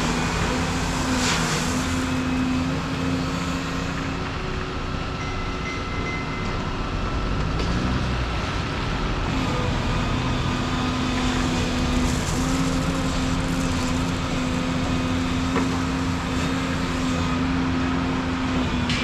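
Volvo 235EL excavator's diesel engine running steadily, its note dipping briefly and coming back up about eight seconds in.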